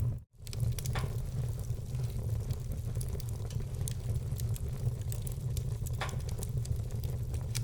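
Wood fire burning, crackling with many small sharp pops and a few louder ones over a steady low rumble. The sound cuts out for a split second just after the start.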